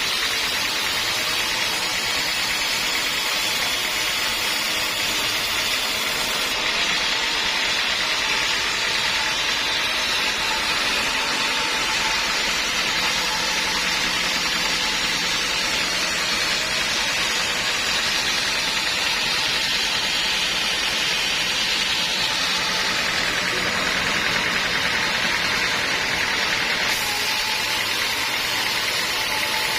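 Sawmill machinery running steadily, a continuous mechanical noise with no breaks. Its tone shifts slightly about six seconds in and again near the end.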